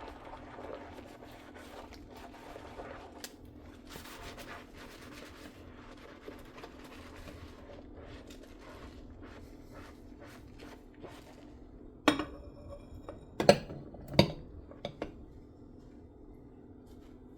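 Dishes being washed by hand in a kitchen sink: faint scrubbing and small clicks. About twelve seconds in, a piece of crockery knocks with a ringing tail, then two louder clinks of dishes knocking together. A steady low hum runs underneath.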